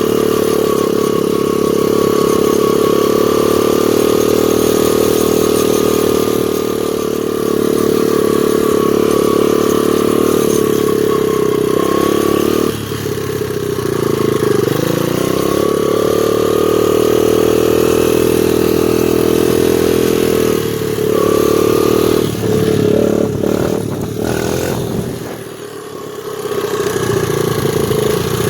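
The four-stroke single-cylinder engine of a 2001 Honda XR100R dirt bike running steadily under way. Twice it eases off, the pitch dipping and then rising again, and near the end it drops low for a moment before pulling again.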